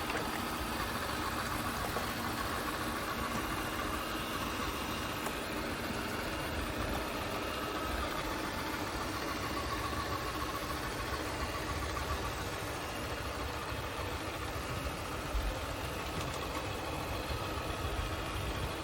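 ECOVACS DEEBOT N20 PRO PLUS robot vacuum's motor running: a steady whir with a faint high whine over a low rumble, switching on suddenly at the start.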